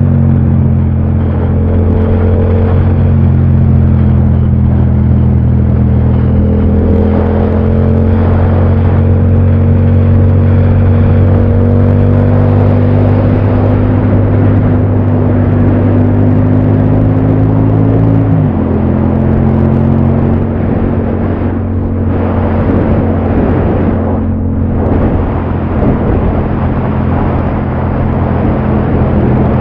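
Yamaha MT-07 parallel-twin motorcycle engine pulling under load, its pitch climbing slowly, over a steady rush of wind and road noise. About 18 seconds in the revs drop suddenly, and the engine runs on at a lower, steady pitch.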